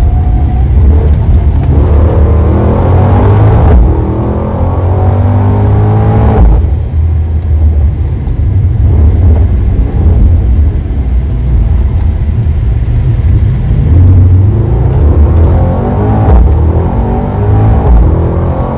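Mercedes-AMG GT 63 S 4-Door Coupé's 4.0-litre biturbo V8, heard inside the cabin, accelerating hard with a deep rumble and rising pitch. The pitch drops sharply at shifts or lift-offs a few seconds in and again about six seconds in, runs quieter through the middle, and builds again later.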